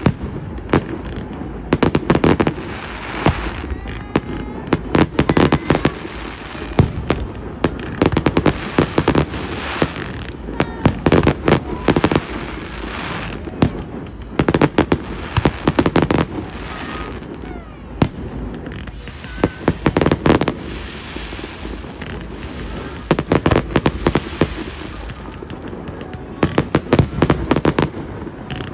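Aerial fireworks going off: clusters of rapid sharp bangs and crackles every few seconds, over a continuous background rumble.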